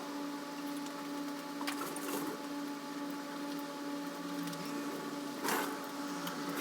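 A few short metallic clinks and knocks of hand tools on motorcycle parts, the loudest about five and a half seconds in, over a steady hum.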